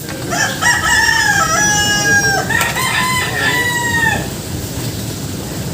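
Rooster crowing twice in a row, two long drawn-out calls back to back, each ending in a falling tail.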